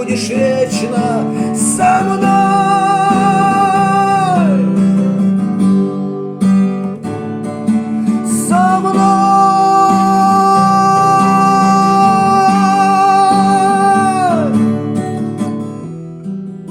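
Acoustic guitar playing, with a voice holding two long wordless notes with vibrato: one from about two seconds in, and a longer one from about eight seconds in. The music tails off near the end.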